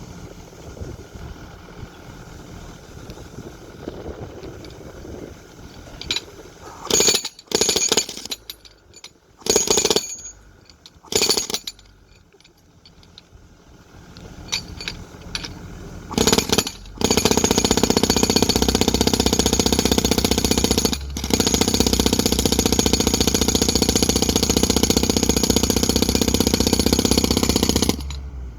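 A jackhammer-type percussive power tool hammering: several short bursts, then a long continuous run of about ten seconds that stops near the end.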